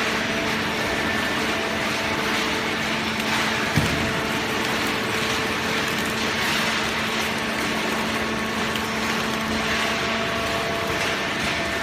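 Automatic plastic-bottle baler running: a steady machine hum over an even clatter of machinery, with one short thump about four seconds in.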